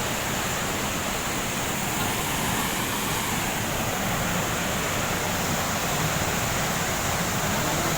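Waterfall with falling water rushing steadily.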